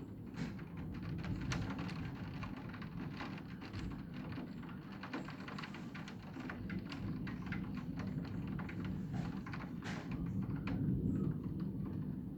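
Thunderstorm downpour: rain falling hard, with many irregular sharp drop ticks on a hard surface close by, over a low steady rumble.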